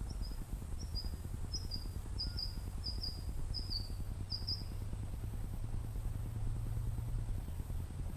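A small bird calling a run of short, high chirps, mostly in quick pairs that step down in pitch, for about five seconds, then stopping. Under it runs a steady low rumble.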